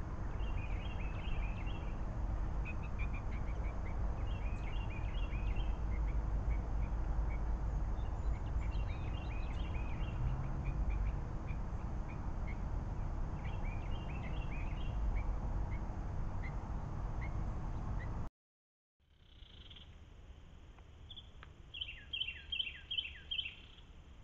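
Birds calling in short bursts of a few quick notes at a time, repeating every couple of seconds over a steady low rumble. The rumble cuts off suddenly about three quarters of the way through, and a quieter run of quick calls follows near the end.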